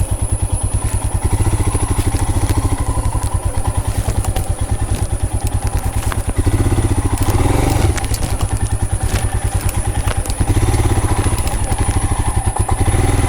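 Motorcycle engine running under way, with a steady rapid firing beat; it gets louder as the throttle is opened about six and a half seconds in and again near ten seconds.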